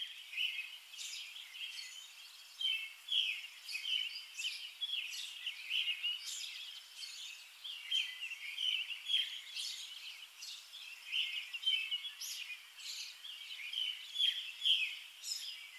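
Small birds chirping: a busy, continuous run of short, quick calls, several a second.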